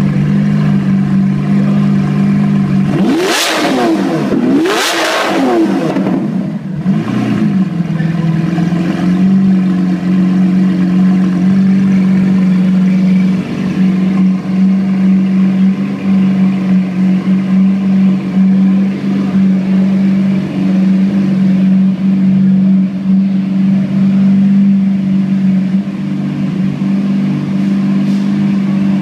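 Lamborghini Aventador LP700's V12 engine through a titanium aftermarket exhaust: idling, blipped sharply twice about three and five seconds in, the revs climbing and falling back each time, then settling back to a steady idle.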